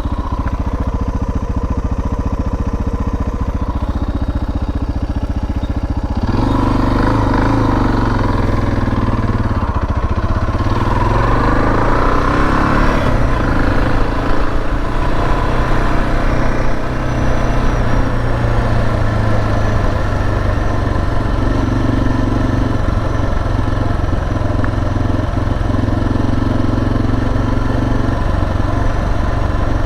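Suzuki DR650's single-cylinder engine running while the motorcycle is ridden; about six seconds in it gets louder and pulls harder, its note rising over the next few seconds before settling to a steady cruise.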